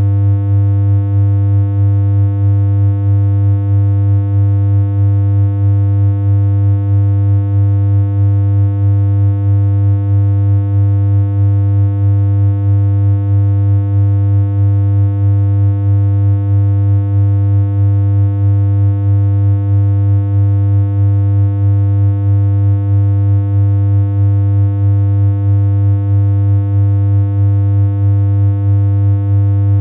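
A steady synthesized electronic hum: one low buzzy tone with a stack of overtones, unchanging in pitch, with a slight regular wobble in loudness.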